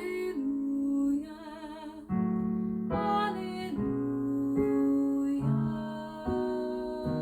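Classical vocal music: a singer holding notes with vibrato over piano chords struck every second or so.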